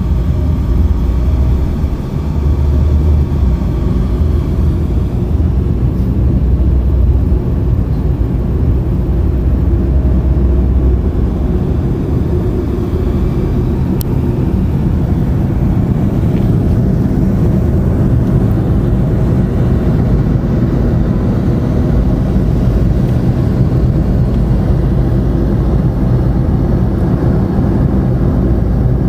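Steady road noise inside a moving car: a continuous low rumble of tyres and engine.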